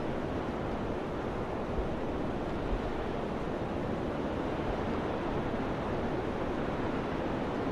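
Steady wind blowing, an even rushing noise, with two brief low buffets about two and three seconds in.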